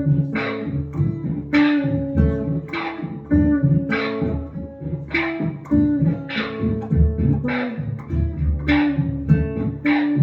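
Electric guitar played through a Boss SY-200 guitar synthesizer pedal on a rhythmic synth preset. Sharp plucked notes repeat about twice a second, each with a bright edge that fades quickly, over a low synth-bass line.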